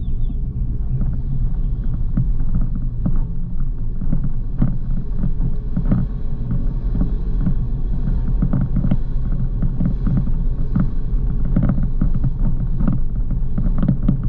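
C6 Corvette's V8 running at low speed with a steady low rumble, heard with the top down, with wind buffeting the microphone in irregular thumps.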